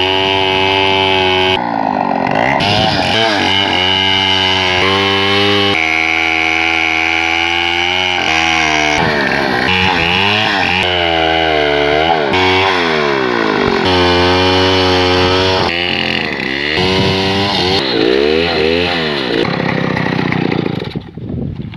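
Two-stroke chainsaw ripping a bangkal log into lumber. It runs at high revs, its pitch dipping and climbing back again and again as the chain loads up in the cut. Near the end the throttle is let off and it drops away.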